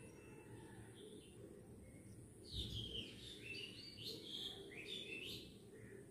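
A bird singing faintly in the background: a run of quick chirps starting about halfway in, over low room noise.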